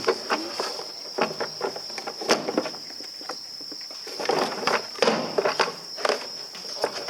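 A steady high insect trill, like crickets, under irregular knocks and clatter from hand work on the machine, with a few sharper knocks standing out.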